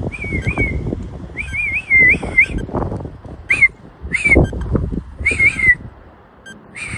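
A man whistling a warbling call to summon hummingbirds, in about six short phrases of a wavering tone. Gusty wind buffets the microphone underneath.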